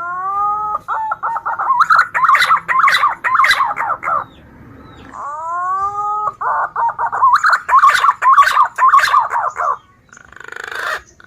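Green pigeon (punai) calling: twice, a curving whistled note is followed by a rapid run of warbling whistles lasting about three seconds. A short harsh, rasping note comes near the end.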